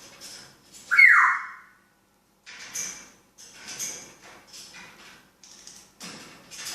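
African grey parrot vocalising: one loud whistled call about a second in that slides downward in pitch, then a run of soft, breathy chattering sounds.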